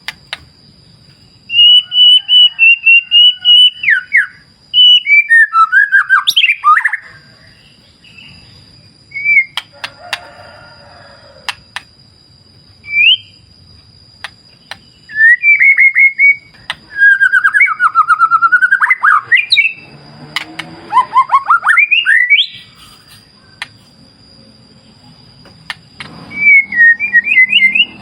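White-rumped shama (murai batu) singing: loud phrases of rapidly repeated notes and slurred, falling and rising whistles, with short pauses between them. A faint steady high-pitched tone runs underneath.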